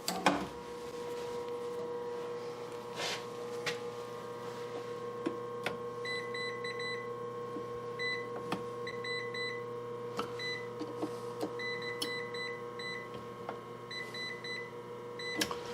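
An electrical tester beeps in quick irregular bursts of short high-pitched beeps from about six seconds in, as it is held to the grinder's wiring and picks up live power. A steady electrical hum with a high tone runs under it, and there are a few light clicks.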